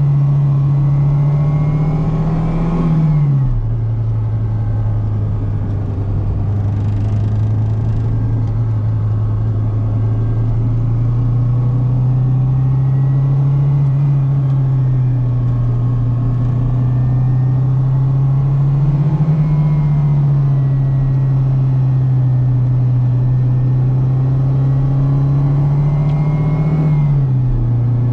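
The Fiat Seicento Sporting's 1.1-litre four-cylinder petrol engine pulling under load while driving. The revs drop sharply about three seconds in, climb slowly and hold high for most of the stretch, then dip and rise again near the end.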